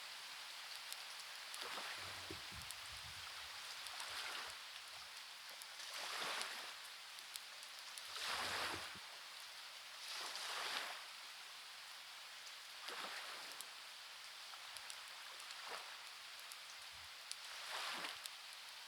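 Waves washing in over a steady hiss of rain, a swell every two seconds or so, with faint scattered clicks.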